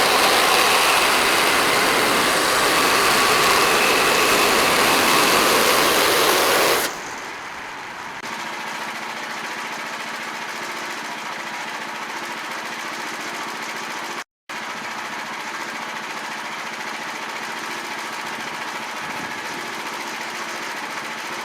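Gas engine of a portable bandsaw sawmill running, loud for about the first seven seconds, then dropping suddenly to a quieter steady run. The sound cuts out briefly partway through.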